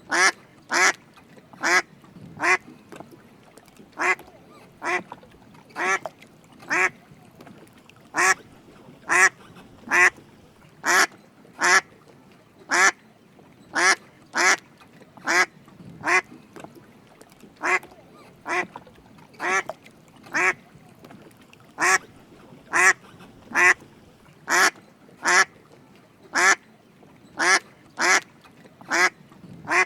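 Drake mallard duck quacking: short, separate calls repeated in an even run, a little more than one a second.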